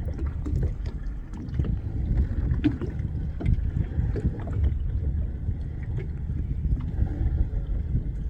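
Small boat at sea: a steady low rumble with water slapping against the hull and many short knocks and splashes.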